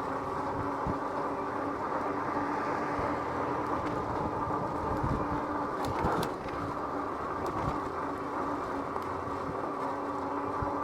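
Electric bike's rear hub motor whining steadily under way, over tyre noise with scattered low knocks from a rough sidewalk.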